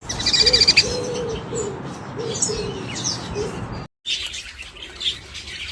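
Birds chirping and calling: a fast high trill at the start, then a run of short lower notes among scattered high chirps. The sound drops out for a moment about four seconds in, and chirping resumes.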